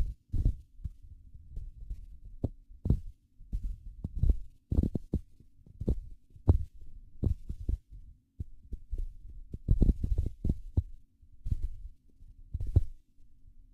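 Handling noise from a handheld camera jostled while walking: irregular low thuds and bumps at uneven intervals, over a faint steady hum.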